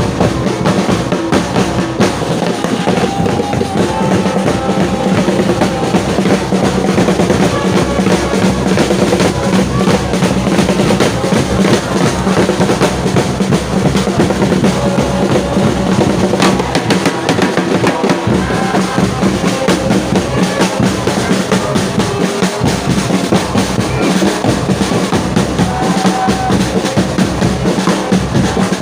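Football supporters' drums beating steadily in the stands, with the crowd chanting and singing along in unison.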